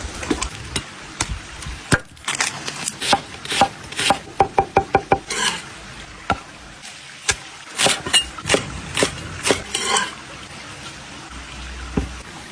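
Food-preparation clatter: a string of sharp knocks and clicks of utensils against wood and cookware, with a quick, even run of about six taps around the middle.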